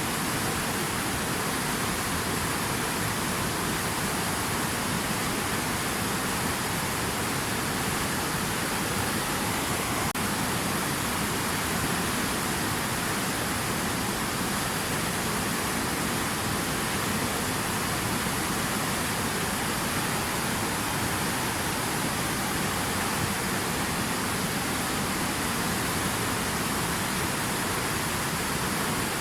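Water running steadily, an even hiss with no breaks or changes.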